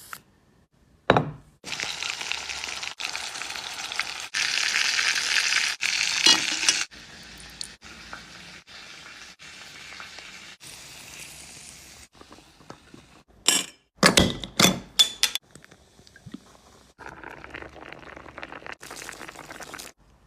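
Food sizzling in a hot pan, loudest in the first few seconds and quieter later, broken by abrupt cuts. About 14 seconds in there is a quick run of sharp clinks and knocks from utensils or cookware.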